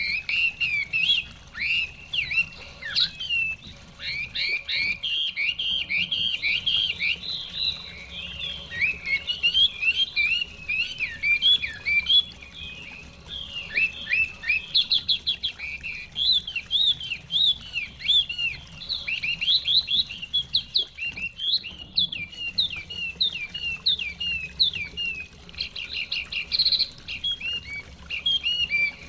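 Chinese hwamei (họa mi) singing a long, near-continuous song of rapid, varied whistled phrases and slurred notes, with only brief pauses.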